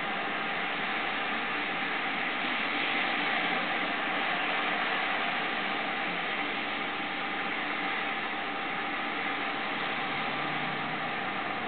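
Rain falling steadily on a flooded street and sidewalk: an even hiss of drops splashing into standing water.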